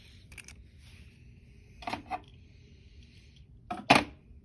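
Small toy trains being handled and set down: a few short clicks and clacks, a pair about two seconds in and the loudest pair near the end, with faint rubbing in between.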